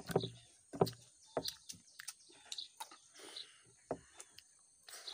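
A child chewing food noisily with the mouth open, making a series of sharp, wet mouth smacks at irregular intervals of about half a second.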